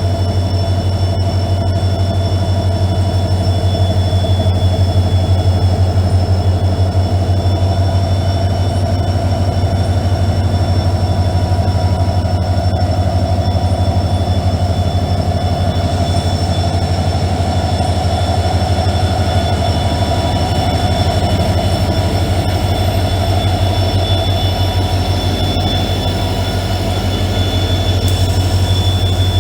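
Indian Railways train running along the track: a loud, steady low rumble with a fast, even rattle, and thin high whines held above it.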